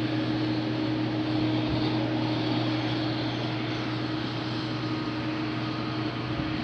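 A large engine running steadily, a constant drone with two steady low tones and no change in speed.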